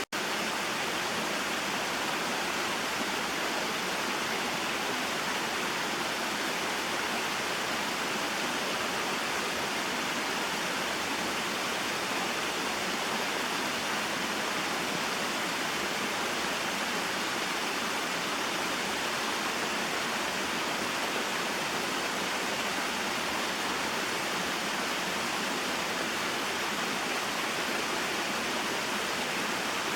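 Small waterfall and stream running: a steady, even wash of flowing water with no breaks or changes.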